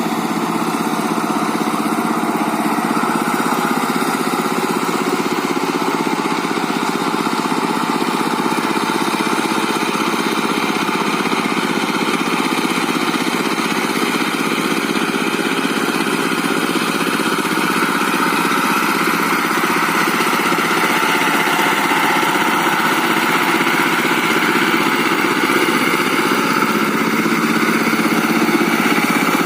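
Diesel walking tractor with a rotary tiller, its engine running steadily while it works the soil.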